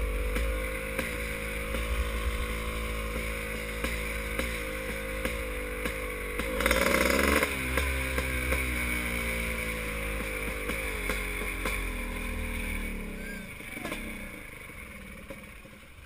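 Motocross bike engines revving hard and shifting through the gears over and over, one bike loudest and closest about seven seconds in, then the engine sound fading away near the end.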